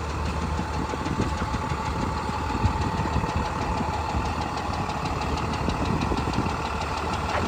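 Diesel engine of an International HV507 fire brush truck idling steadily, with a faint steady whine over the low rumble.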